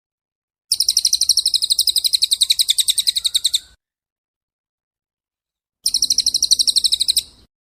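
A songbird singing two rapid, high-pitched trills of evenly repeated notes, about ten a second: the first lasts about three seconds, the second, shorter one comes near the end.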